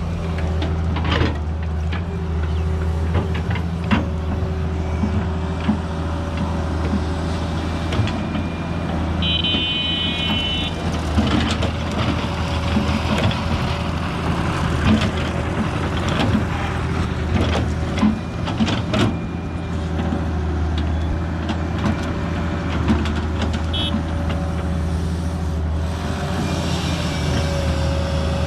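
Excavator's diesel engine running steadily under load, with irregular knocks and clatters as it works dry mud. A brief high-pitched tone sounds about ten seconds in.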